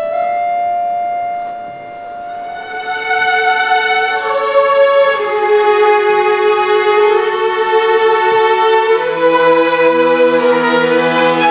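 Chamber orchestra playing slow, sustained chords in the strings and winds. Further voices enter and the sound swells after a few seconds, and lower held notes join about nine seconds in.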